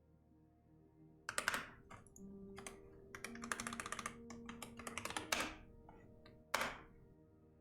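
Typing on a computer keyboard. The clicks start about a second in, come in a quick run of keystrokes in the middle, and end with a heavier stroke near the end.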